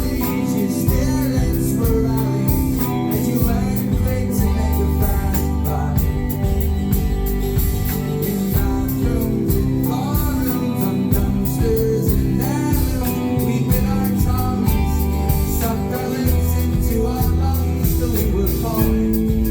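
Live folk-rock band playing a song: guitar over bass and a steady drum beat, with a voice singing.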